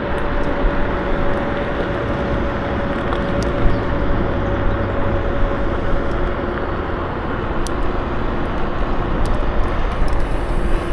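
KuKirin G2 electric scooter being ridden: steady wind and road noise with a thin motor whine that fades out about seven seconds in.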